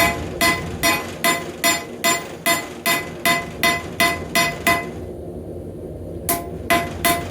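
Hand hammer striking a rebar knife blade on an anvil in steady light blows, about two to three a second, each with a bright ring. The blows pause briefly about five seconds in, then resume. These are finishing blows, straightening the blade and smoothing out the hammer marks.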